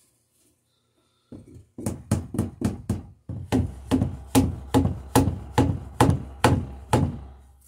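A fast, even run of sharp knocks on wood, about three to four a second, starting about a second in, with a low steady hum joining under them partway through.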